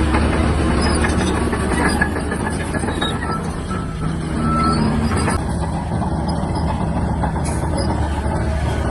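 Shantui DH17-C3 bulldozer's diesel engine running steadily under load, with a few sharp clanks from the machine.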